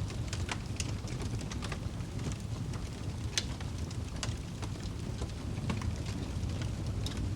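Wood fire crackling in a fireplace: scattered sharp pops and snaps over a steady low rumble of the flames, with one louder pop about three and a half seconds in.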